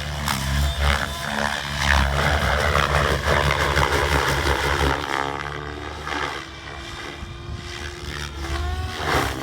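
Gaui X7 electric RC helicopter in flight: steady low rotor hum with a motor-and-gear whine that slides up and down in pitch as the rotor is loaded and unloaded. It is louder in the first half and eases off about halfway through.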